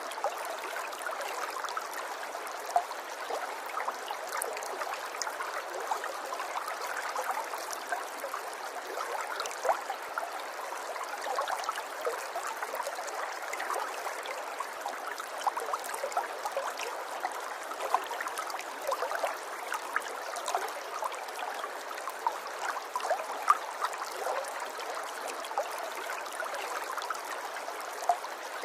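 River water flowing steadily, a soft even rush with many small trickling and gurgling splashes throughout.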